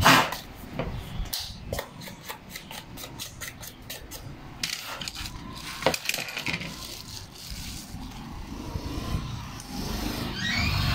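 Small metal hand tools and phone parts clicking and tapping on a glass tabletop during a phone teardown, with a rapid run of light clicks in the first few seconds and a sharper click at the start. Near the end a low engine rumble starts to build.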